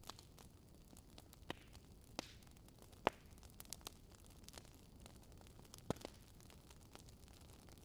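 Campfire crackling: scattered sharp pops and snaps over a faint steady hiss, the loudest pop about three seconds in.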